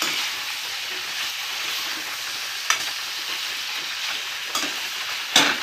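Chicken feet and sliced onions frying with a steady sizzle in a steel kadai while being stirred with a steel spatula. A few sharp knocks come through, the loudest near the end.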